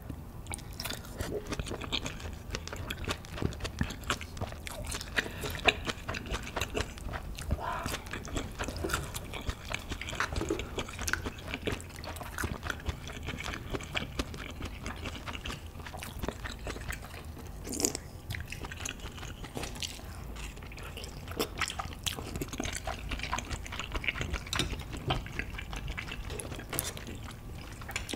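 Close-miked chewing and wet mouth sounds of someone eating mala tang stew: a steady run of small wet clicks and smacks.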